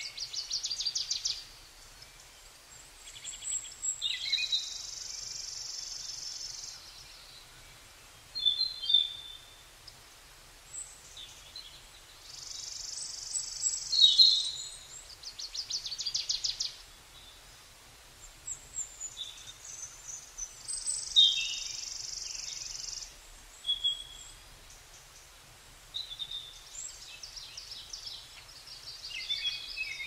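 Birdsong: several small birds chirping and trilling, with quick rattling trills. A steady high buzz comes three times, each time lasting about two seconds.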